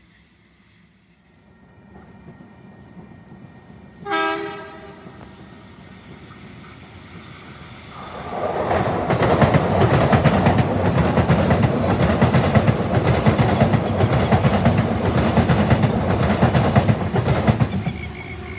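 A train horn gives one short blast about four seconds in. The train then passes close by, its wheels rumbling and clattering loudly on the rails from about eight seconds, dropping away near the end.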